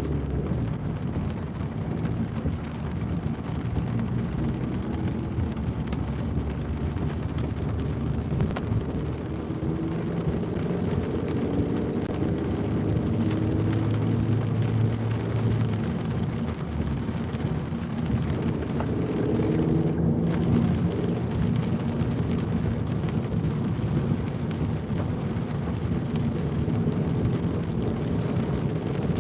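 Rain and city road traffic: a steady wash of noise, with the engine hum of passing vehicles swelling and fading now and then.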